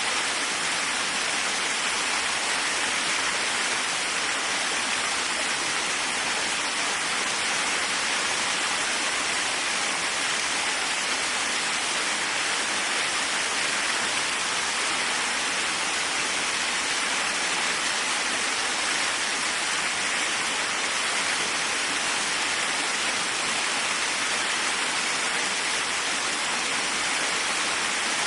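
Waterfall: water falling and splashing in a steady, even rush, most of it a bright hiss.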